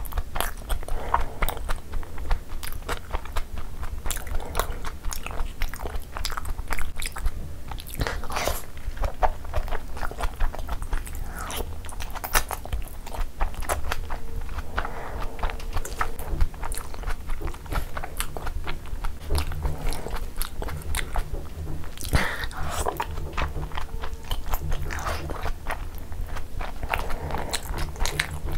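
Close-miked chewing and wet mouth sounds of a person eating soft chicken momos in gravy, with many sticky clicks and smacks at an irregular pace. A steady low hum runs underneath.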